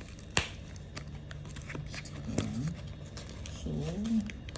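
Phone-accessory packaging being handled: one sharp click about half a second in and a few faint ticks, followed by a short hummed vocal sound.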